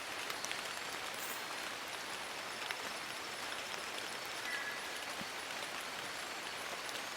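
Steady rain falling on forest leaves, an even patter with scattered individual drop ticks. A brief faint high double note sounds about four and a half seconds in.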